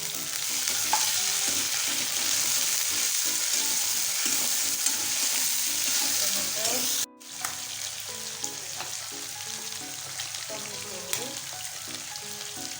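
Food sizzling steadily in hot oil in a pan. The hiss cuts off abruptly about seven seconds in, then returns at a lower level.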